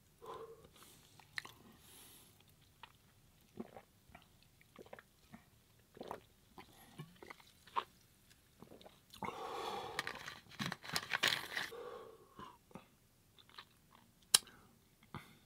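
A hard-shell taco being chewed: crisp crunches and sharp mouth clicks, with a longer, louder run of crunching past the middle.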